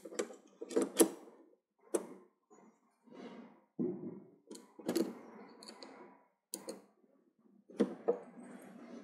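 TV parts being handled and fitted during reassembly: irregular sharp clicks and knocks of plastic and metal pieces, with rustling and scraping between them, the loudest knock about a second in.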